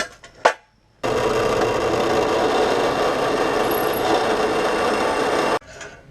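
Two short knocks, then a welding arc burning steadily for about four and a half seconds, starting and cutting off abruptly.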